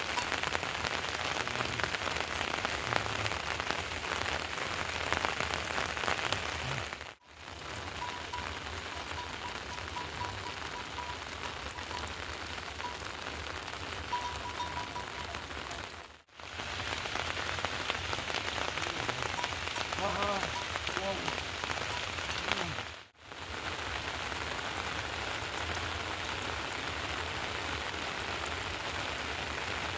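Steady heavy rain falling and pattering on surfaces, cutting out briefly three times.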